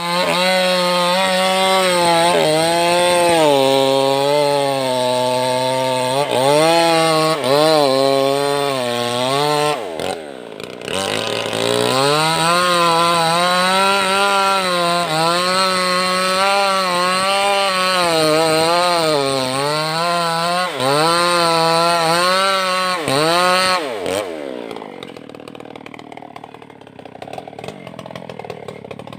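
Maestro two-stroke chainsaw with a Stihl chain running at high revs, its pitch dipping and recovering again and again as it cuts wood. The revs drop briefly about ten seconds in and pick up again, then fall away near the end to a quieter idle.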